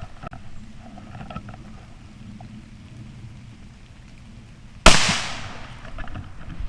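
A single .17 HM2 rimfire rifle shot about five seconds in, sharp and loud, its report echoing and dying away over a second or more.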